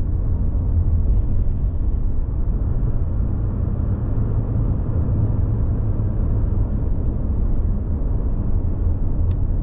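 Steady low rumble of a car being driven on a road, tyre and engine noise as heard from inside the cabin.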